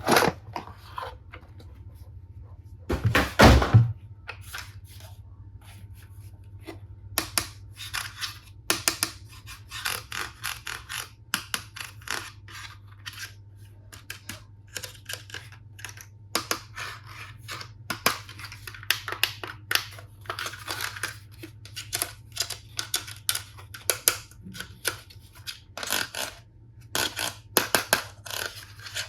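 Plastic toy tools and their packaging being handled: a run of irregular clicks, taps and scrapes, with a heavier thump about three seconds in.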